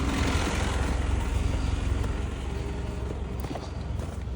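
2010 Isuzu NPR box truck's engine idling steadily, with a rushing noise over roughly the first two seconds.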